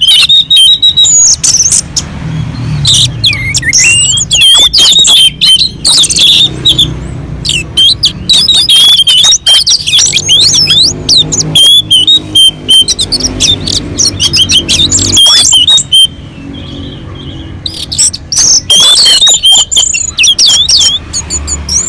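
Orange-headed thrush singing nonstop: a fast, varied run of whistled notes and chattering phrases, with a short pause about three-quarters of the way through.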